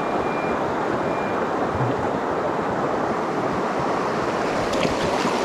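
Mountain stream water rushing steadily over rocks, a constant even noise.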